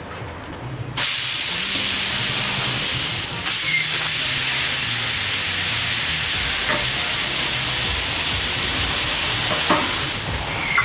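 Compressed air hissing steadily, cutting in sharply about a second in, with a brief break partway through and a drop near the end.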